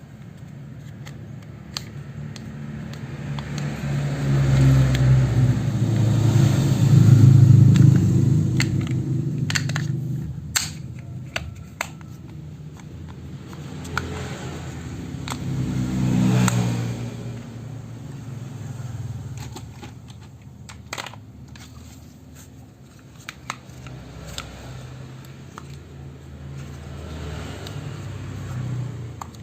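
Engine-like revving sound of toy vehicle play, swelling up and fading away three times, loudest a few seconds in. Sharp plastic clicks and taps run through it.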